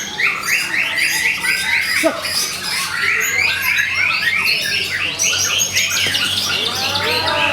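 White-rumped shama (murai batu) singing continuously in fast, rapid-fire phrases, with runs of short repeated notes several times a second mixed with whistles and gliding notes.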